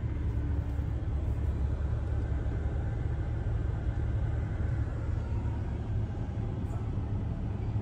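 A vehicle driving, with a steady low engine and road rumble.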